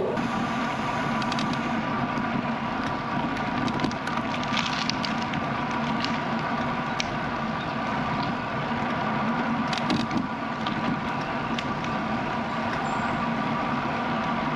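Bicycle being ridden, heard from a bike-mounted camera: a steady hum of tyres and drivetrain with air noise, and a few sharp clicks and rattles about four, seven and ten seconds in.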